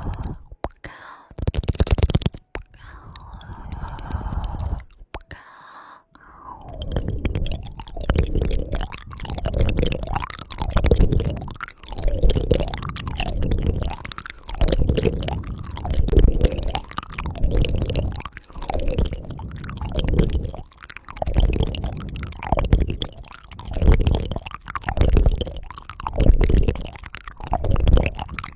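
ASMR ear-cleaning sounds: something rubbing and scraping right against the microphone. About six seconds in it settles into steady strokes, roughly one a second.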